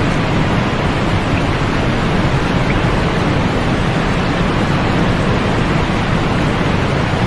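Steady sleep-aid noise, an even hiss with no rhythm or events, heavier in the low end and thinning out in the highs, holding one level throughout.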